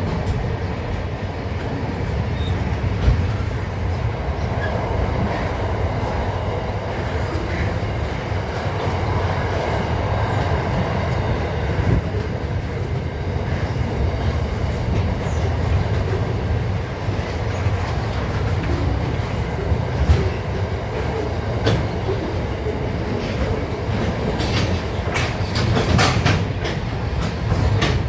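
A train running on the rails with a steady low rumble, a few sharp clicks near the end.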